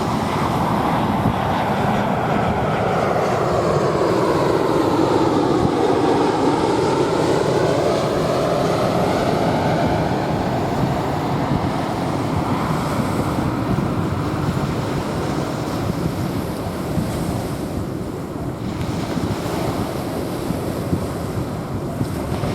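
A jet airliner passing over, its noise swelling to a peak about five seconds in with a phasing sweep that falls and rises again, then fading away, over small waves washing onto a sandy beach.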